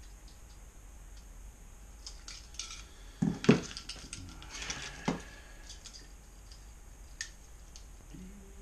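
Metallic clinks and knocks from handling exhaust-can parts and hand tools on a workbench: a cluster of sharp knocks about three to five seconds in, then a few lighter clicks.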